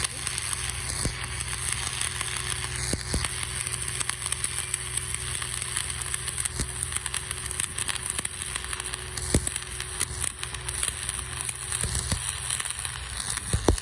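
Stick (arc) welding with an Oerlikon electrode: the arc crackles and sizzles steadily, with many small sharp pops over a steady low hum.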